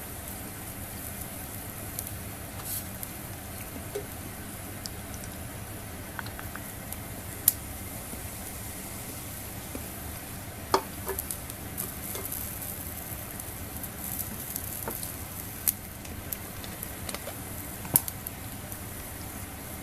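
Food sizzling steadily on a wire grill net over a stainless mini fire pit, with a few sharp clicks or pops scattered through.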